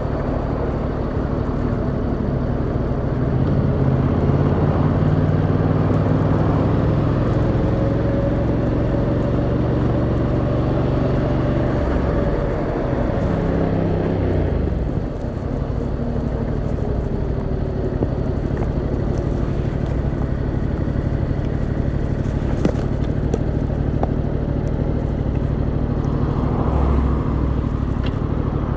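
Yamaha MT-07's 689cc parallel-twin engine running at steady low revs in traffic, over wind and road noise. About twelve seconds in the engine note falls away for a few seconds as the revs drop, then it runs on steadily at a lower pitch.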